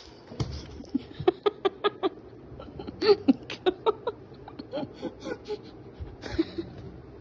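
Young child giggling and squealing in quick strings of short, high-pitched bursts.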